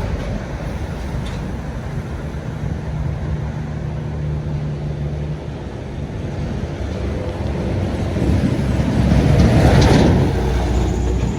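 Heavy road vehicle's engine running steadily, then a vehicle passing close, its noise building to loudest about ten seconds in and fading.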